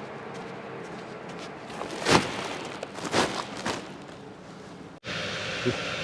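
Tractor engine running steadily, with a few short sharp knocks about two to four seconds in. About five seconds in the sound cuts abruptly to a louder, hissier steady running noise.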